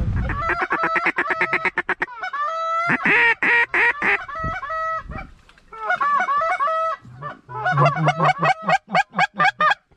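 Geese honking in rapid runs of short, repeated calls, with brief pauses between the runs.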